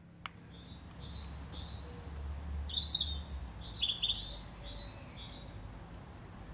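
A small songbird calling with a run of short, high chirps, about two a second, with a louder flurry of notes around the middle.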